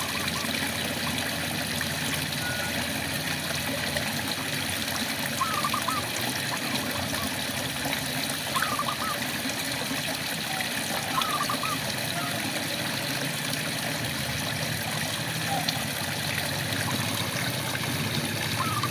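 Steady rain falling, with frogs giving short wavering calls every few seconds over it.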